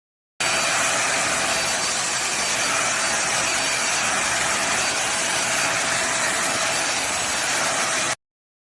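Deerma handheld vacuum cleaner running steadily: a rushing airflow noise with a high motor whine. It cuts in abruptly about half a second in and cuts off abruptly near the end.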